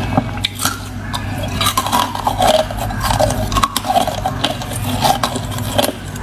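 Ice being bitten and chewed close to the microphone: an irregular run of sharp crunches and crackles as the ice breaks between the teeth.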